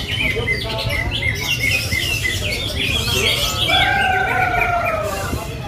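Many caged greater green leafbirds (cucak hijau) singing at once at a songbird contest: a dense tangle of quick chirps and trills over a steady low rumble, with one long, slightly falling whistle about two-thirds of the way through.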